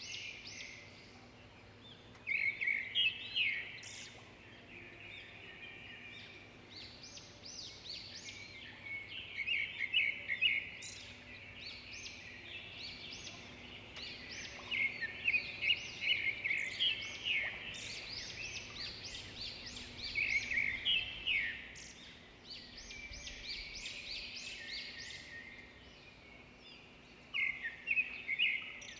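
Small birds chirping and twittering in bursts of rapid, high chirps every few seconds.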